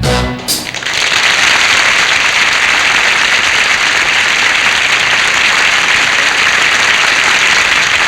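Studio audience applauding steadily and loudly. The orchestra's final chord and a couple of sharp closing hits sound in the first half-second.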